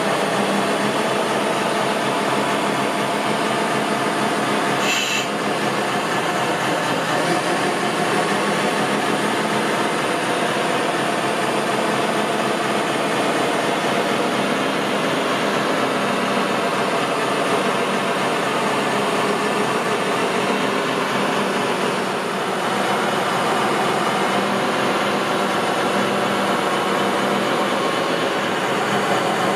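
Steady whirring of radio-controlled model construction machines' motors and gears running, with a brief click about five seconds in.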